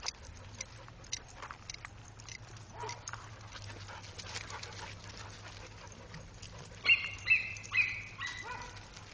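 Dogs giving a quick run of about four short, high-pitched barks late on, with scattered small clicks and taps before them.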